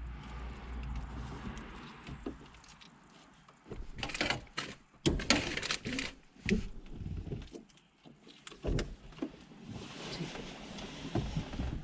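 Hand-handling noises of car radio wiring and plastic parts: irregular rustling, scraping and light knocks, busiest from about four to seven seconds in, with another short scrape near nine seconds.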